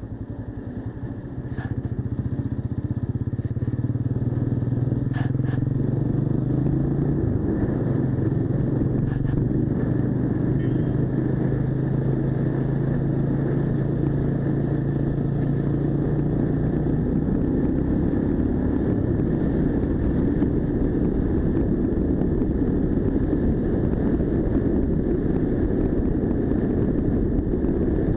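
Single-cylinder motorcycle engine running under way, its steady note dipping once about seven seconds in. Wind and road noise take over in the second half.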